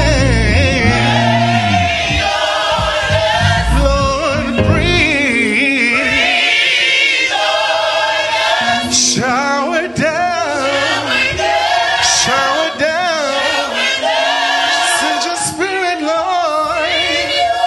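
Gospel choir singing a worship song, the voices wavering with wide vibrato. A low bass accompaniment drops away after the first couple of seconds, leaving mostly voices.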